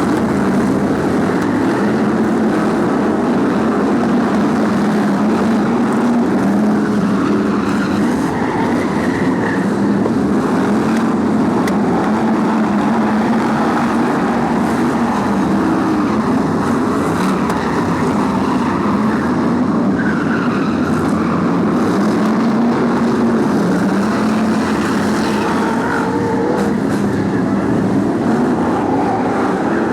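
A pack of BriSCA F1 stock cars racing: many big engines running together in a loud, continuous drone, their pitches wavering up and down as the cars accelerate and lift around the track.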